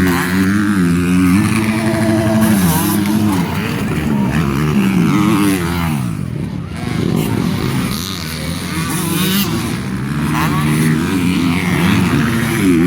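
Motocross dirt bike engines revving up and falling back as the bikes race around the track, several at once. The engines ease off for a couple of seconds midway.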